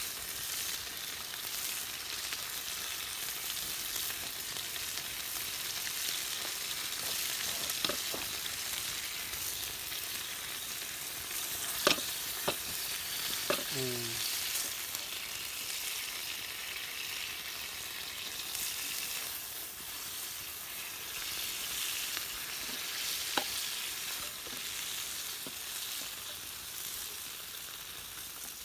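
Green peppers and tomatoes sizzling in oil in a shallow steel pan over a wood fire, a steady hiss. A few sharp clicks come through it, a cluster about halfway through and one more near the end.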